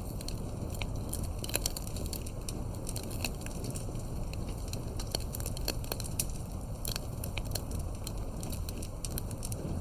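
Wood campfire crackling: irregular sharp pops and snaps, several a second, over a low steady rumble of the burning fire.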